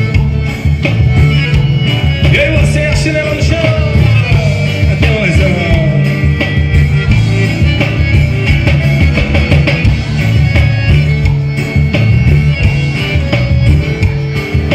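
Forró pé de serra band music playing with a steady beat.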